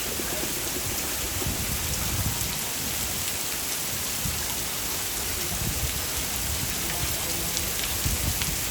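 Heavy rain falling steadily, a dense hiss of drops hitting surfaces, with occasional low rumbles underneath.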